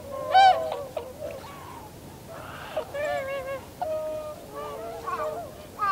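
A flock of tundra swans calling: many overlapping calls, some held and some short, with the loudest about half a second in.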